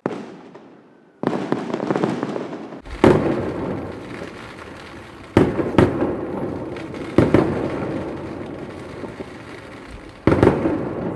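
Fireworks display: aerial shells bursting in a series of sharp bangs, about seven in all, each followed by a long rolling rumble as it echoes away. The loudest bang comes about three seconds in.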